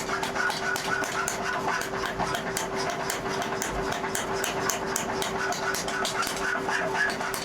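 A small machine running with a steady hum, with rapid irregular ticks over it.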